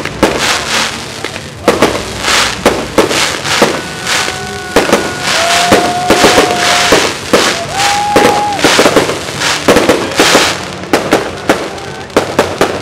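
Fireworks display: aerial shells bursting in quick succession, with many sharp bangs and crackling. A couple of long, held tones sound over the bangs near the middle.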